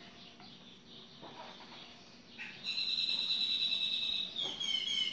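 A bird sings a loud, high, rapid trill starting about halfway in, dropping to a lower pitch near the end.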